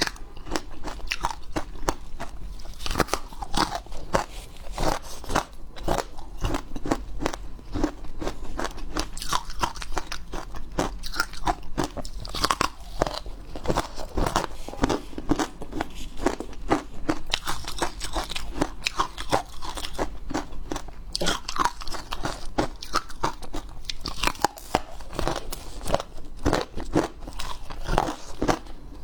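Hard ice being bitten and crunched in the mouth: a continuous run of sharp cracks and crunches, several a second, with no pauses.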